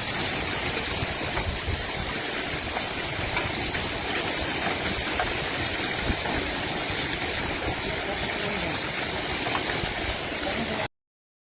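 Steady rushing of floodwater, an even dense roar with no distinct events, cutting off suddenly near the end.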